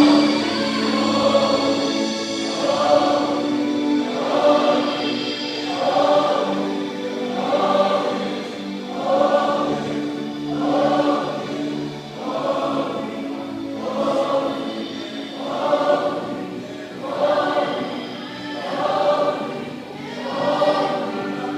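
Music with a choir singing, the voices swelling and fading in a regular pulse about every one and a half seconds over held low notes.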